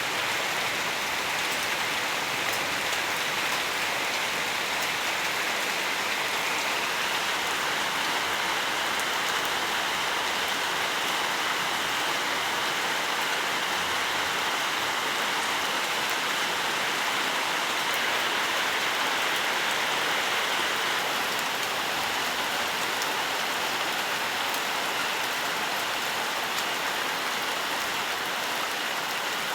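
Steady forest rain falling, an even hiss of many drops with fine patter that holds constant throughout.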